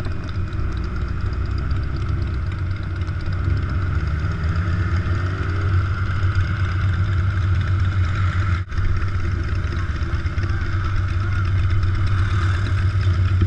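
Large motorcycle engine running steadily with a strong low note, with a brief dip in the sound about two-thirds of the way through.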